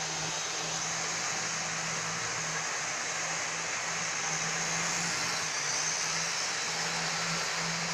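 Model train locomotive running at full speed on the track, pushing its coupled stock: a steady low hum over an even hiss from its electric motor and wheels.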